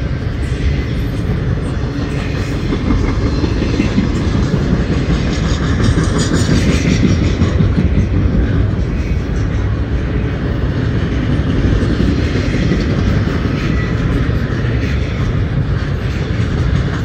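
Double-stack intermodal container train's well cars rolling past close by: a steady, loud, low rumble of wheels on rail.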